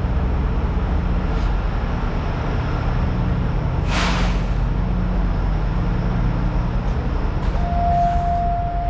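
Semi-truck diesel engine idling with a steady low rumble, and a short hiss of air about four seconds in, like an air-brake release. A steady beep-like tone sounds near the end.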